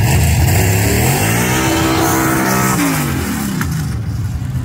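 Drag car's engine revving hard during a burnout: the revs climb for about two seconds, then drop away quickly.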